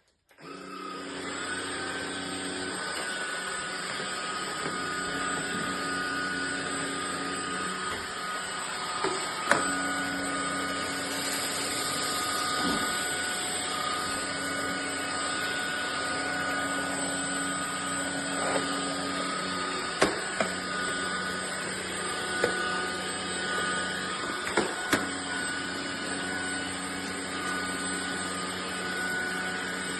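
Ultenic U16 Flex cordless stick vacuum running steadily with a high motor whine, broken by a few sharp clicks, the loudest about a third of the way in and again past the middle.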